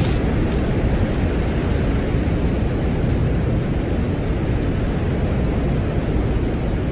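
Steady low rumbling noise with no tones or rhythm, from a space recording played as sound.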